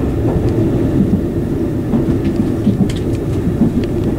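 JR Kyushu 787-series limited express train running, heard from inside a passenger car as a steady low rumble, with a few faint clicks in the second half.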